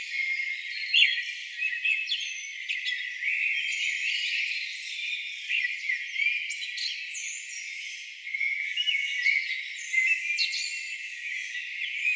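Several songbirds singing and calling at once: a dense chorus of overlapping chirps, whistled glides and trills. The low end is cut away entirely, leaving only the high bird voices.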